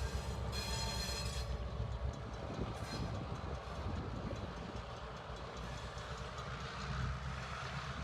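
Freight train rolling past with a steady low rumble of wheels on rail. A train horn is still sounding at the start and cuts off about a second and a half in.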